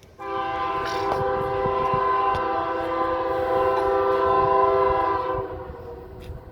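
Locomotive horn of an approaching coal train: one long blast of about five seconds, a chord of several steady notes, starting abruptly and ending near the end.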